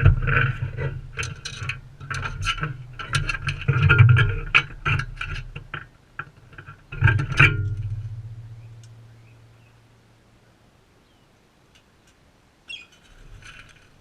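Close-up knocking and scraping of a parrot's beak and feet on the feeder right against the camera. A last hard knock about seven and a half seconds in leaves a low hollow ringing that dies away over a couple of seconds, and a short bird call comes near the end.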